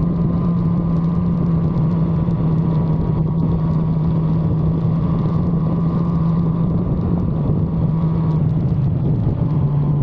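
1985 Suzuki GSX-R750F's inline-four engine running at steady revs on the move, over a steady rush of noise. The pitch dips slightly near the end.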